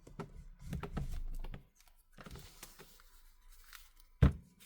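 Handling noises of a tablet and a plastic pry tool on a work surface: small clicks and a short stretch of rubbing about a second in, then one sharp click or knock about four seconds in.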